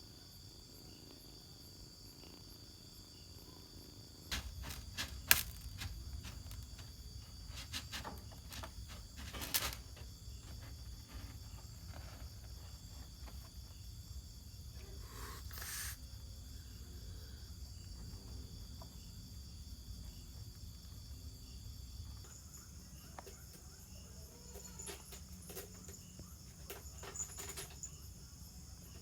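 Insects trilling steadily in high, even tones, shifting to a higher pitch about two-thirds of the way through. A few sharp knocks cut across them, the loudest about five seconds in and another near ten seconds.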